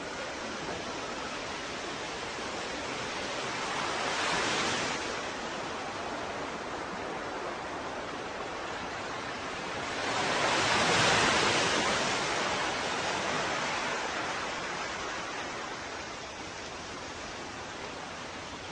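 Ocean waves washing onto a shore: a steady rush of surf with two waves swelling and breaking, a smaller one about four seconds in and a louder one about ten seconds in that slowly dies away.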